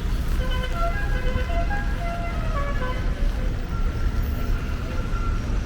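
Steady low rumble of city street traffic, with a melody of short, stepping tones playing over it during the first three seconds and a single held tone later on.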